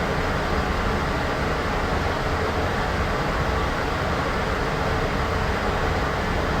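Steady, unchanging noise hiss with more weight in the lows and mids than the highs, a continuous background noise bed.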